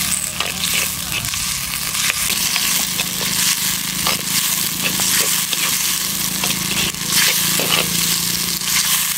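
Tomatoes, small onions and garlic sizzling in hot oil in a clay pot, with a metal slotted ladle scraping and clicking against the pot as they are stirred and sautéed.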